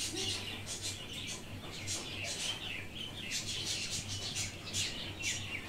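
Small birds chirping: many short, high chirps, some falling in pitch, several a second, over a steady low hum.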